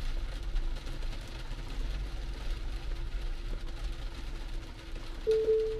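Hard rain on a Tesla, heard from inside the cabin as a steady hiss with a low rumble. Near the end, the park assist proximity warning starts beeping with a short, single-pitched tone.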